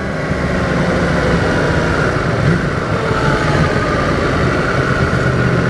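Yamaha MT-10's crossplane inline-four running steadily as the motorcycle rides along, with wind noise over the microphone.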